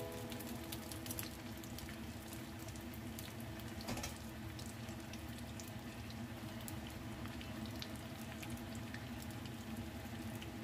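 Oil sizzling and crackling steadily around rice-paper rolls shallow-frying in a pan, with a brief knock about four seconds in.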